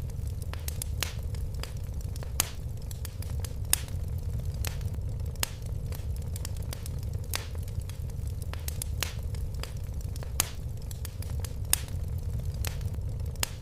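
Wood fire burning in a fireplace: a steady low rumble with irregular crackles and pops, a few of them sharper and louder.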